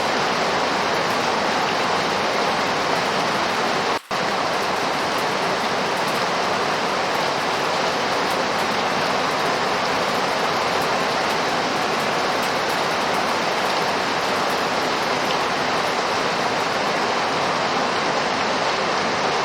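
Steady, dense rainfall, an even hiss of falling rain, with a split-second gap about four seconds in.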